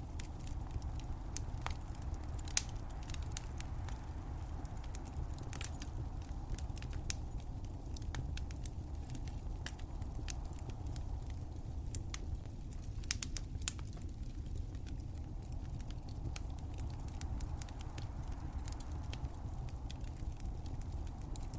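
Wood fire crackling in a fireplace: scattered sharp pops and snaps over a steady low rumble, with a quick cluster of pops about thirteen seconds in.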